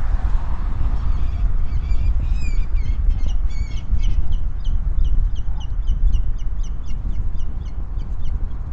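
Birds calling in a quick string of short, high notes, several a second, from about a second and a half in until near the end. Under them runs a steady low rumble of wind and traffic.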